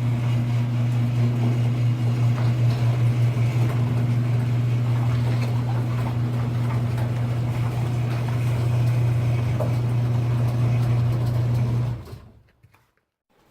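Car running at a steady, unchanging engine pitch, a constant low drone over road and cabin noise; it fades out about twelve seconds in.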